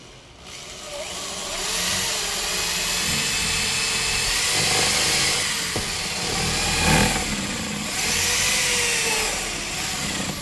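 Electric drill boring a hole through a wooden plank. It starts about half a second in and runs with its pitch wavering as the bit loads and eases, then stops at the very end.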